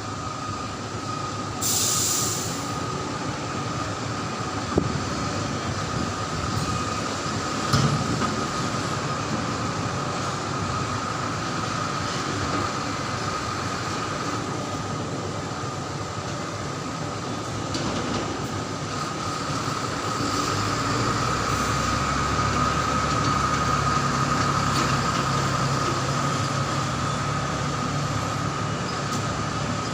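Heavy mining dump truck running, with a steady high whine over its mechanical noise. A short hiss comes about two seconds in, and a deeper engine rumble builds from about twenty seconds in.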